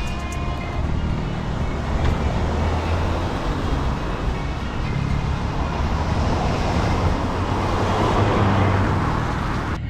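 Wind rumble and road noise on a ride-along camera microphone while cycling on a wet road: a steady, loud rushing with a heavy low rumble. It cuts off abruptly just before the end.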